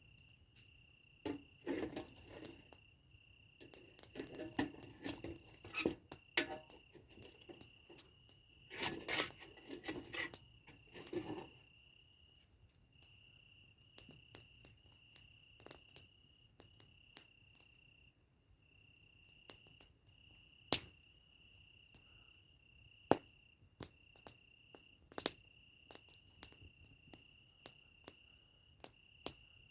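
Campfire crackling and popping: dense clusters of crackle in the first half, then scattered sharp single pops. Under it, a cricket trills on one steady high note.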